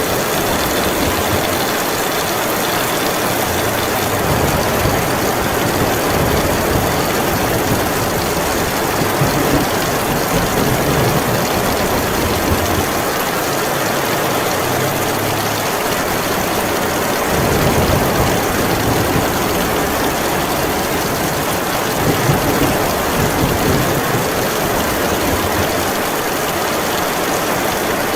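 Heavy rain pouring steadily in a storm, a dense even hiss, with a low rumble that swells and fades, strongest in the middle.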